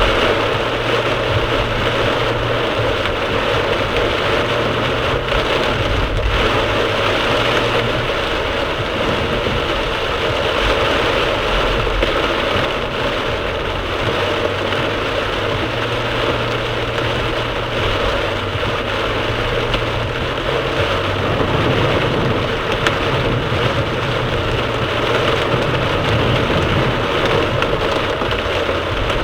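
Torrential rain drumming steadily on a moving car, over a low hum of engine and road noise.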